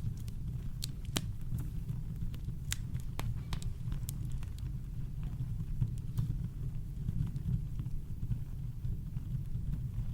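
Campfire crackling: scattered sharp pops and snaps at irregular intervals over a steady deep rumble of brown noise.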